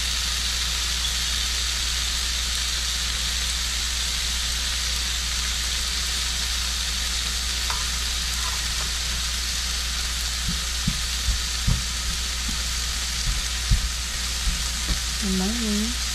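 Pancake batter sizzling steadily in a hot pan, with a few light knocks partway through the second half.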